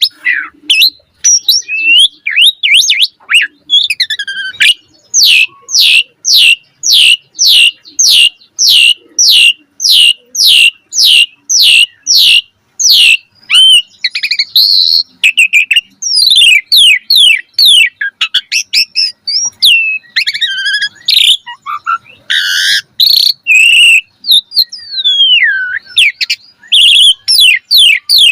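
Asian pied starling (jalak suren) singing a loud, varied song: a long run of repeated falling whistled notes about two a second, then a mix of sweeping whistles and squeaky notes.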